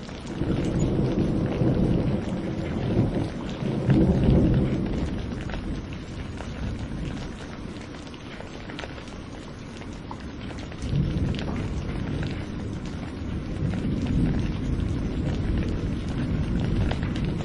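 Steady rain hiss with scattered drop ticks under rolling thunder: a deep rumble swells about half a second in, peaks around four seconds and fades away, and a second rumble begins about eleven seconds in.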